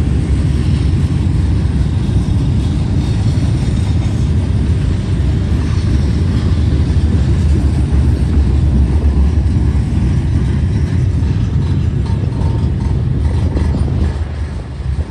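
Loaded freight cars of a long manifest train (covered hoppers, gondolas and tank cars) rolling past: a steady low rumble of steel wheels on the rails that eases slightly near the end.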